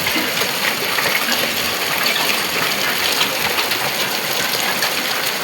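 Heavy rain pouring down steadily, a dense even hiss with scattered small taps of drops.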